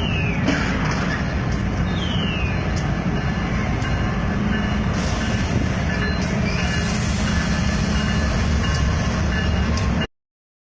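Train running past with a steady rumble, cutting off abruptly near the end.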